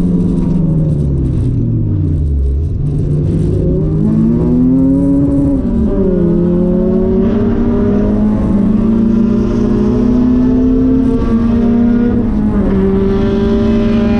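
1994 Nissan Sentra SE-R's SR20VE 2.0-litre four-cylinder, heard from inside the car. The revs fall away for a couple of seconds, then the engine pulls hard under full throttle. The pitch climbs and drops back sharply at each upshift, once mid-way and twice near the end.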